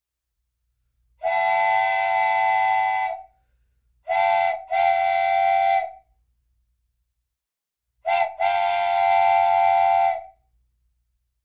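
Train horn sounding a steady multi-note chord in separate blasts: one long blast, then a short and a long blast close together, then another short and long blast.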